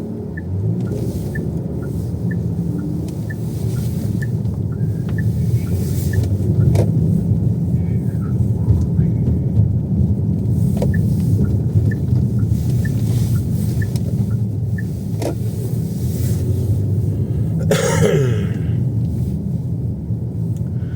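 Car interior noise while driving: steady engine and road rumble. For roughly the first two thirds a turn-signal indicator ticks in an even alternating rhythm, and a brief rushing swish comes near the end.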